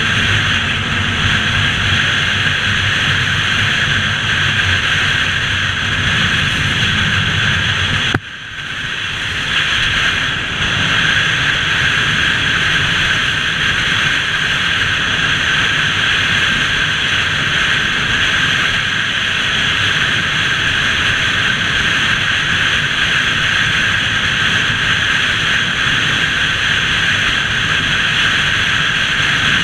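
Motorbike on the move: steady engine and wind-rush noise, with a sudden brief drop in level about eight seconds in.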